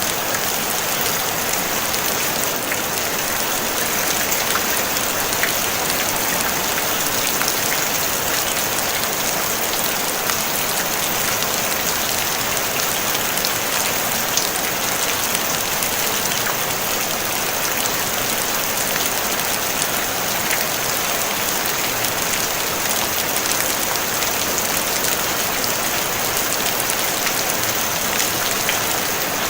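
Steady rain falling on a tin roof: a dense, even hiss of drops with scattered sharper drop ticks, no thunder.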